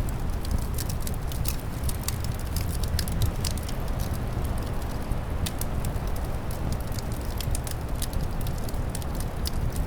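Wood fire crackling, with many small sharp pops scattered irregularly, over a steady low rush of wind.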